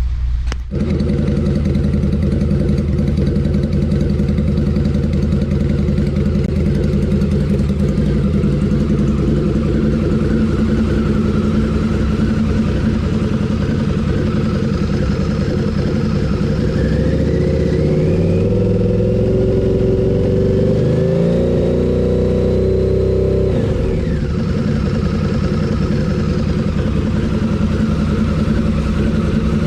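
2013 Harley-Davidson V-Rod Night Rod Special's liquid-cooled V-twin engine running, starting abruptly just under a second in. It holds a steady idle, rises in pitch for a few seconds past the middle, and drops back suddenly to idle about two-thirds of the way in.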